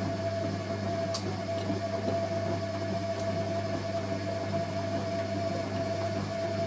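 Hoover A3060 Electronic 1100 washing machine running mid-cycle: a steady low electrical hum with a thin, higher whine over a wash of noise.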